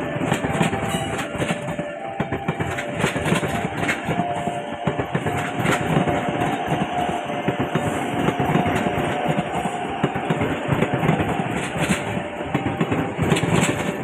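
A train running past close by: steady rumbling running noise with many sharp clicks of wheels over the rails.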